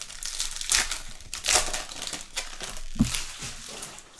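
Crinkling of Topps trading card pack wrappers as packs are opened and cards handled, in a series of short rustles.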